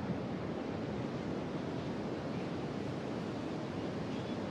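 Ocean surf breaking on a beach: a steady, even wash of noise.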